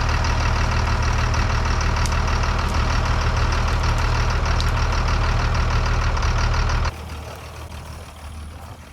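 Vehicle engine idling steadily, cutting off abruptly about seven seconds in.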